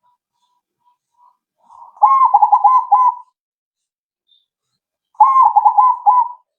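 A zebra dove (perkutut), a krosing bird, cooing: two loud phrases about three seconds apart, each a quick run of rolling, bubbling coo notes. A few soft notes come just before the first phrase.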